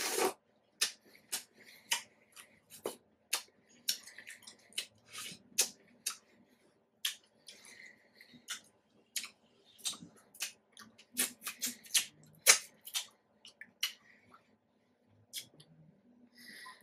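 Chewing pomegranate seeds: irregular sharp crunches and wet mouth clicks.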